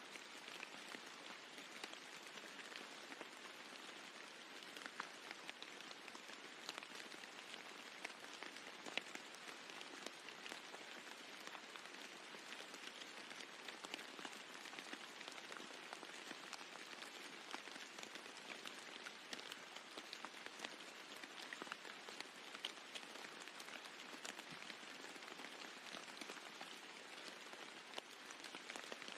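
Steady rain falling on a roof: an even hiss dotted with many separate drops ticking.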